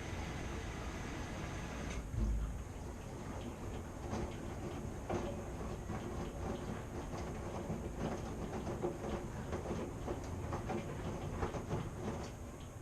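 Washing machine running. About two seconds in, a steady hiss stops with a low thump, and from then on the drum turns with irregular clicks and knocks over a low rumble.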